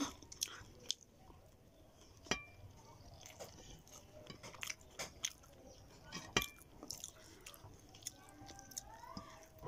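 Close-up chewing and small mouth sounds of a person eating rice and shrimp by hand, with scattered soft clicks and two sharper clicks about two and six seconds in.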